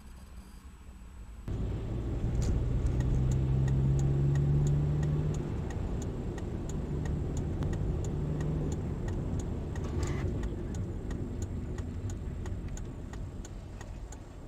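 Car engine running, heard from inside the vehicle, its pitch rising as it accelerates, with a steady tick about twice a second and a brief sharp knock about ten seconds in.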